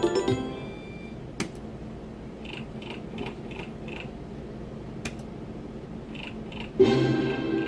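Slot machine electronic sounds: a short run of tones at the start, soft blips about twice a second while the reels spin, a couple of sharp clicks, and a louder burst of tones near the end.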